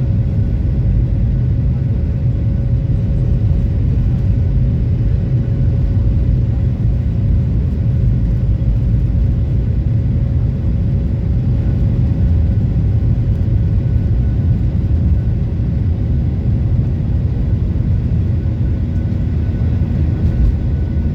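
Boeing 737-800 jet engines running, a loud steady low rumble with a steady hum over it.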